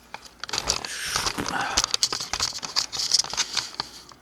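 Metal hand tools and sockets clinking and rattling as they are picked up and handled, a string of irregular sharp clicks with some rustling.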